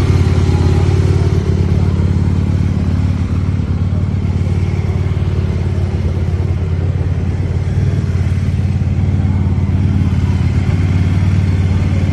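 Aprilia RSV Mille SP's V-twin engine running at a steady idle, loud and unchanging in pitch.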